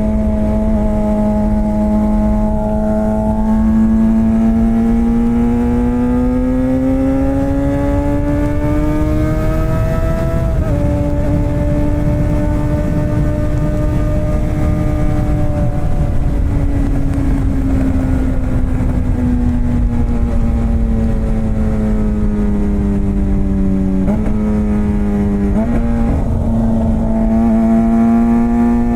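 Suzuki GSX-R 600 inline-four with a straight-piped exhaust and no catalytic converter, running under way. Its note climbs slowly for about ten seconds, breaks briefly, eases down, then steps up twice near the end, over a low rush of wind.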